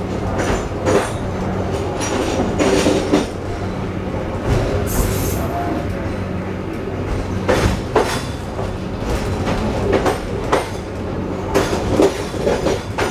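Passenger train coach rolling slowly over station pointwork, its wheels clacking irregularly over rail joints and switches above a steady low hum. A brief high squeal comes about five seconds in.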